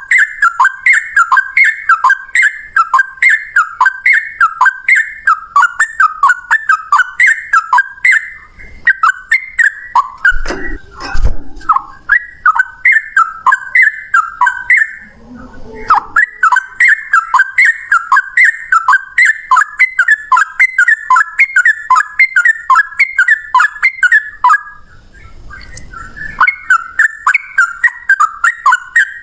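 Yellow-vented bulbul singing a long, rapid run of loud, repeated warbling notes, two or three a second, with short breaks about halfway through and near the end. A brief low rumble comes about ten seconds in.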